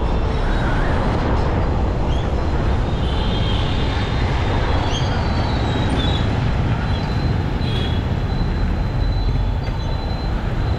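Motorcycle riding through city traffic: a steady loud rumble of wind and road noise on the microphone, with a few short high beeps from traffic horns.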